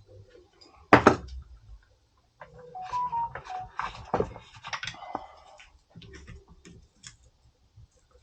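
Hand tools knocking and clicking against metal while prying at a CV axle to work it free: one sharp knock about a second in, then a run of irregular clicks and knocks with brief squeaks.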